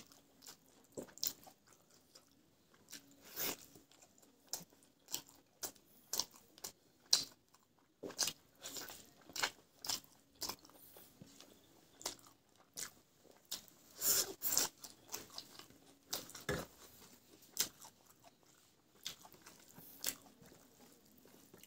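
Close-up chewing and eating sounds: irregular wet lip smacks and crunches, several a second, as rice and a roasted chicken leg are eaten by hand.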